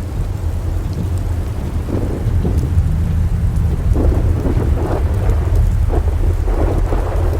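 Storm wind buffeting the microphone: a heavy, continuous low rumble that swells and flutters unevenly, without speech.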